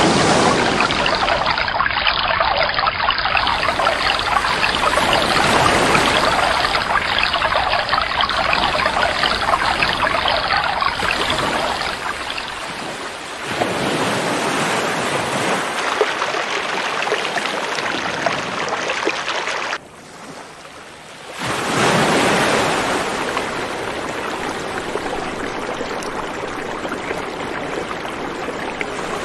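River water flowing over rocks, a steady rushing. The sound cuts abruptly between takes: the level shifts about 13 seconds in, and it drops to a quieter stretch for about a second and a half around 20 seconds in before returning.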